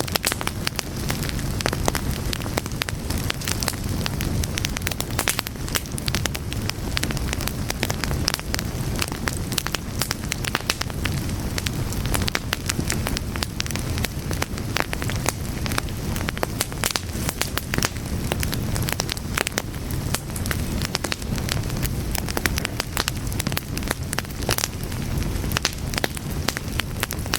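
Fire crackling steadily, with a dense run of small irregular pops over a constant low rumble of flames.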